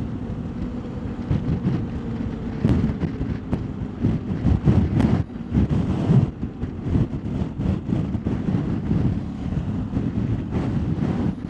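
Strong gusty wind buffeting the microphone on a moving motorcycle, a low uneven rumble, with a faint steady drone from the BMW R1250GS's boxer-twin engine under it.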